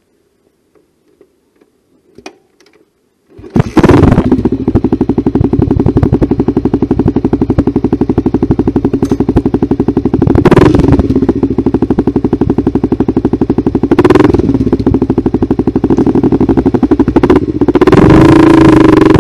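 1985 Honda GB400TT Mk II's single-cylinder four-stroke engine kick-started: a few faint clicks, then it catches about three and a half seconds in and settles into a loud idle with an even pulse. It is blipped twice in the middle and revved up and held higher near the end.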